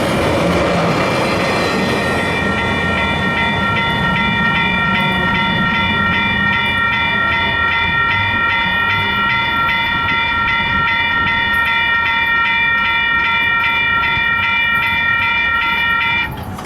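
Train horn sounding a multi-note chord, held steadily for about fourteen seconds and cutting off suddenly near the end, over the rumble and wheel noise of a passing train.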